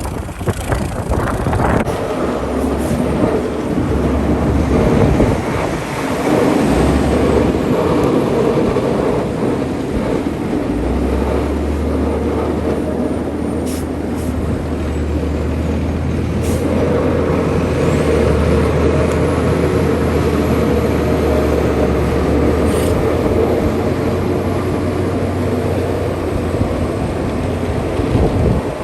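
Vehicle noise: a steady low engine hum under a wash of noise.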